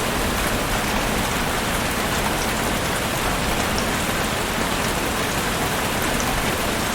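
Rain falling steadily, a dense even hiss of many drops on a surface.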